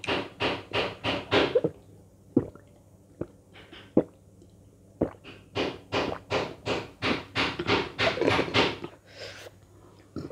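Close-up crunchy chewing of food, in quick rhythmic runs of about three crunches a second, broken by a stretch of a few scattered clicks and smacks in the middle.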